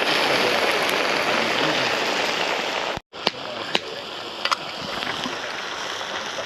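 Food sizzling in a cast-iron Dutch oven over a campfire: a steady hiss that breaks off about three seconds in and returns quieter, with a few sharp crackles and clicks.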